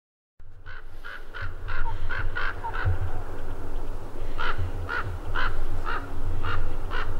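A flock of birds calling: short, harsh calls, about two a second, some overlapping, over a steady low rumble.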